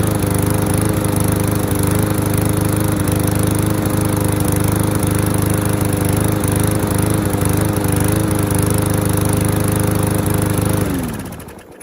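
Small four-stroke engine on an MTD Yard Works walk-behind lawnmower running steadily at a raised speed. A tab has been bent to bring the engine speed up from a slow idle, and the owner judges it sounds better. Near the end it is shut off and winds down, its pitch falling until it stops.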